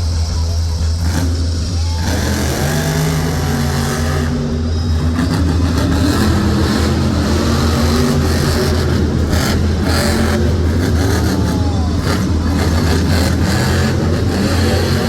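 El Toro Loco monster truck's engine running loudly and revving, a deep steady drone with the pitch of the revs shifting up and down.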